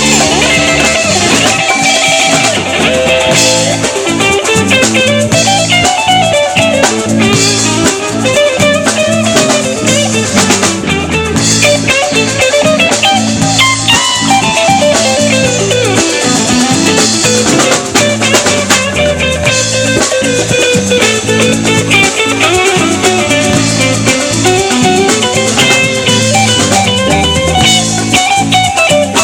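A live band playing an instrumental passage: guitar lines over a bass and drum kit groove, with no singing.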